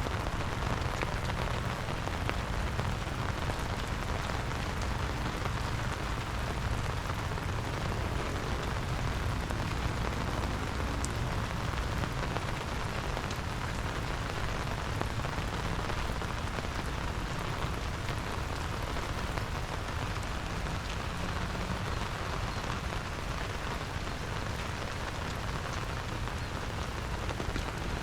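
Steady rain falling, an even hiss of drops with a deep rumble underneath.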